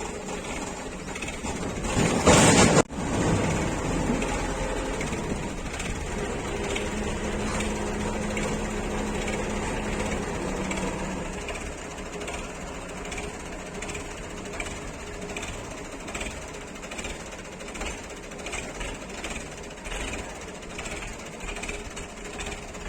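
Tractor's diesel engine running steadily with a rapid, even beat. A loud burst of noise about two seconds in cuts off abruptly.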